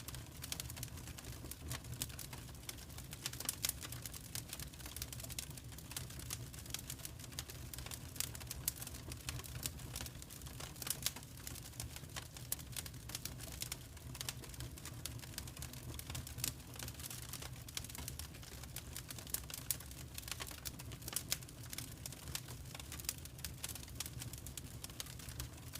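Wood fire crackling in a fireplace: a dense run of irregular sharp pops and snaps over a steady low rumble of the flames.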